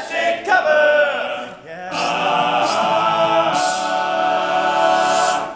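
Male a cappella group singing in harmony: a short sung phrase, then a long held chord that stops near the end.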